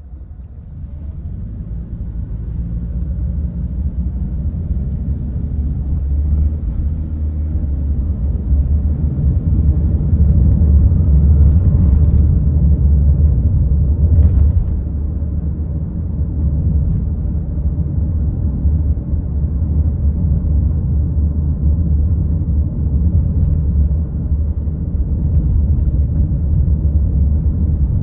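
Low rumble of a car driving, building over the first ten seconds or so as it picks up speed, then holding steady.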